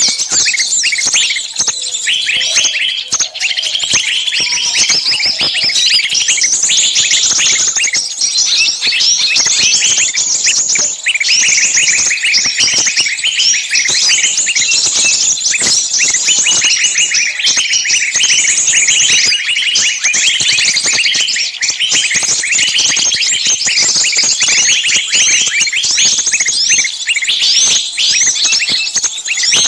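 Many small birds chirping at once in a dense, unbroken chorus of short high chirps.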